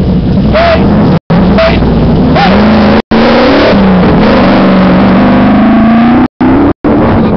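Offroad rally car engine revving and accelerating away from the start. The engine pitch rises about two seconds in and then holds steady, and the sound cuts out for an instant several times.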